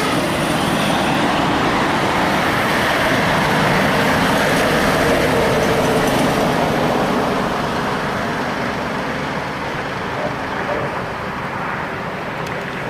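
Road traffic with heavy trucks passing close by: a steady, loud wash of engine rumble and tyre noise that eases off a little in the second half.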